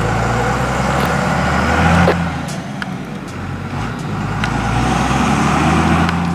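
Ramp truck's engine running as it drives away down the road. The engine note drops about two and a half seconds in, then builds again.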